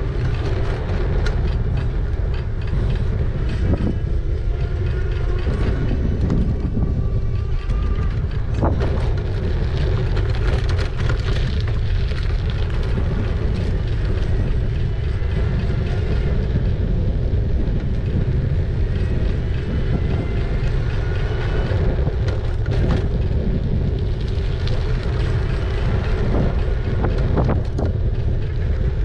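Riding noise from an e-bike in motion: wind buffeting the microphone over a steady road rumble, with a faint steady hum and a few brief knocks from bumps.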